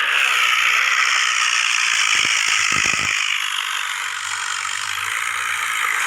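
Tractor diesel engine running, heard as a steady, dense mechanical rattle, with a few sharp knocks about two to three seconds in.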